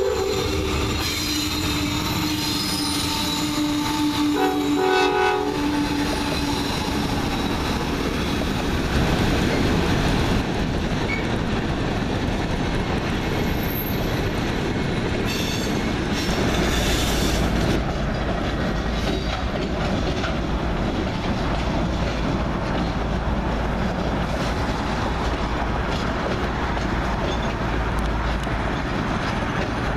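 Diesel freight locomotive horn blowing for a grade crossing in the first few seconds, then the steady rumble and wheel noise of a freight train passing. There is a high wheel squeal around the middle as cars round a curve, and the deep steady drone of several diesel locomotives later on.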